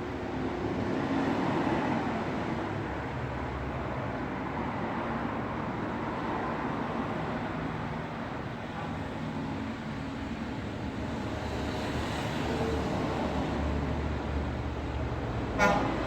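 Road traffic: a steady hum of vehicles with engine drone, swelling slightly as vehicles pass, and one short sharp sound just before the end.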